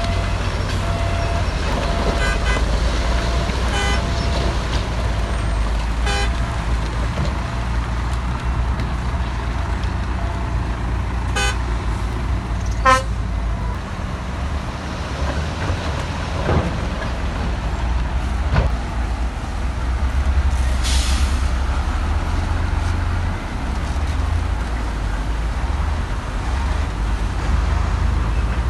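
Heavy earthmoving machinery at work: a large diesel engine running with a steady low rumble that rises and falls, with several sharp metallic clanks along the way.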